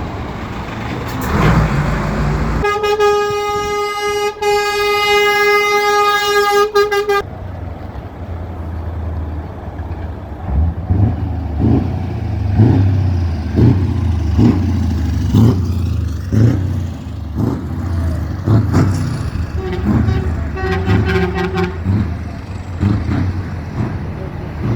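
A truck horn sounds one long blast of about four seconds, then a truck engine runs with a low rumble. A second, fainter horn blast comes near the end.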